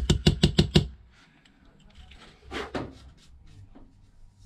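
A stiff brush scrubbing over a phone's bare frame in quick strokes, about seven sharp strokes in under a second, clearing out leftover screen glass; then quieter scratching, with one louder scrape near the middle.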